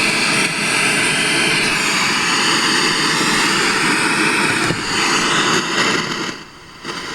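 Loud, even hiss of static from a 1982 RCA XL100 television's speaker as the set is switched on with no station or antenna signal. It comes on suddenly and drops away about six seconds in.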